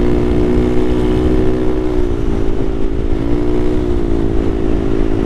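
Honda Navi's small single-cylinder engine running under way, a steady hum whose pitch eases off and picks back up twice as the throttle is rolled on and off.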